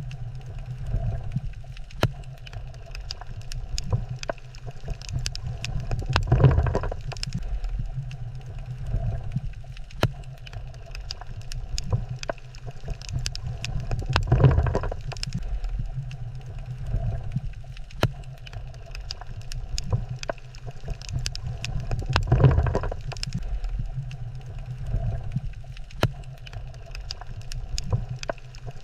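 Underwater ambience on a coral reef: a low rumble that swells and fades about every eight seconds, with scattered sharp clicks and crackles.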